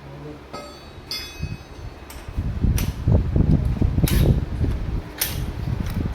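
Swaraj 744 XT tractor's three-cylinder diesel engine running with a loud, dense low clatter that sets in about two seconds in. Several sharp cracks cut through it.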